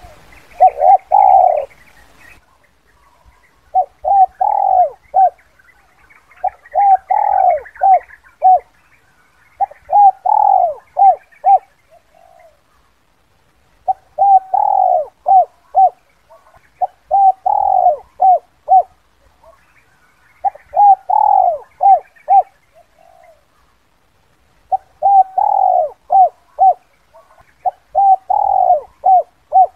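Spotted dove cooing in repeated phrases, each a quick run of short coos around one longer, fuller note, about every three and a half seconds. Faint chirping of other small birds behind it.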